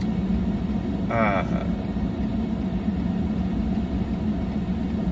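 Steady low hum of a parked vehicle's engine idling, heard from inside the closed cabin. A brief hesitation sound from the driver comes about a second in.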